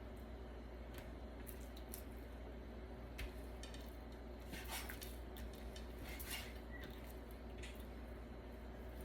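Knife cutting raw chicken breast into cubes on a cutting board: faint, scattered taps and clicks a second or more apart, over a steady low hum.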